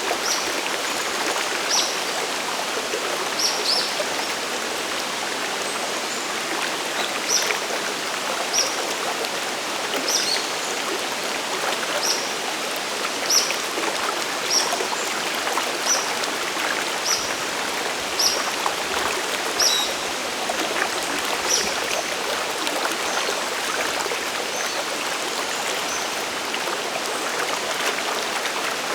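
Water of a mountain waterfall and its stream rushing steadily. Over it, a bird gives short high chirps, one every second or so, for most of the stretch.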